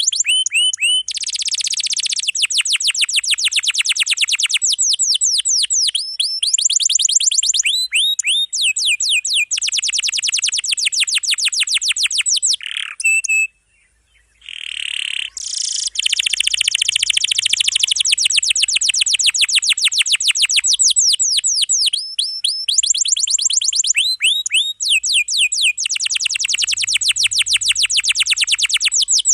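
Domestic canary singing a long, densely packed song of high rapid trills and rolls, each roll a fast run of repeated notes. The song breaks off briefly about halfway, then carries on.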